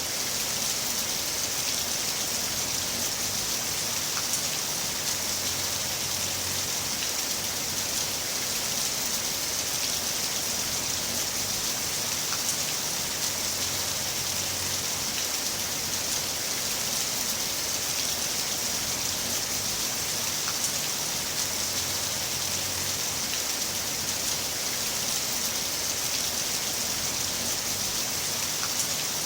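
Heavy rain falling steadily, an even hiss with scattered drops pattering on a surface.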